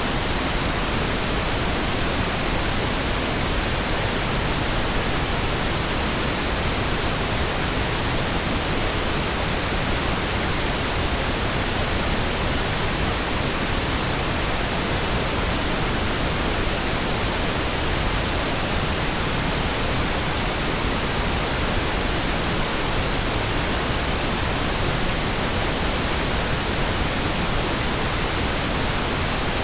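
Steady, continuous pink noise: an even hiss spread across all pitches, with no changes.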